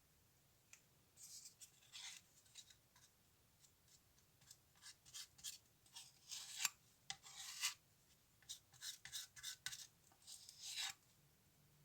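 Faint, irregular scraping and rubbing strokes of hand work on a small die-cast model car part, coming in quick clusters with short pauses.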